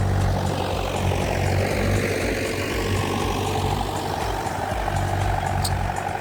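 Old Kubota tractor engine running steadily, with a brief high tick about five and a half seconds in.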